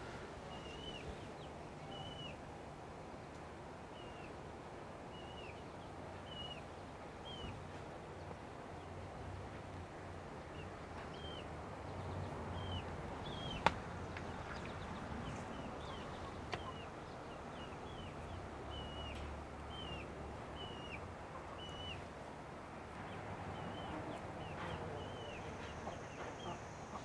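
A bird chirping, short high notes repeated roughly once a second, over a low steady background hum. A single sharp click about halfway through.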